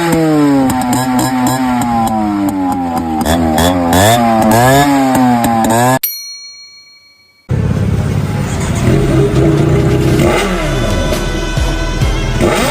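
Motorcycle engine revved again and again, its pitch climbing and falling. It cuts off abruptly about six seconds in. After a short silence a motorcycle is heard revving again over background music.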